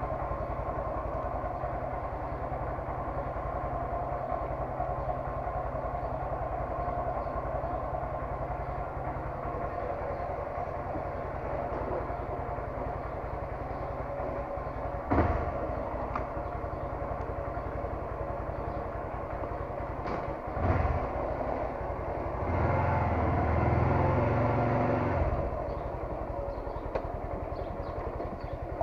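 Honda MSX 125 motorcycle's single-cylinder engine running steadily, with two brief knocks about 15 and 20 seconds in and a louder stretch of about three seconds near the end.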